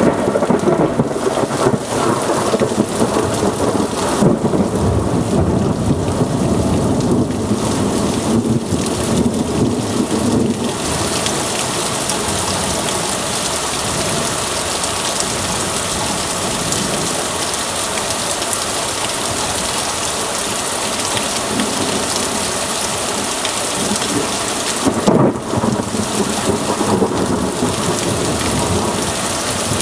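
Heavy downpour hissing steadily during a severe thunderstorm, with thunder rumbling for about the first ten seconds. A sudden loud thunderclap rolls in about 25 seconds in.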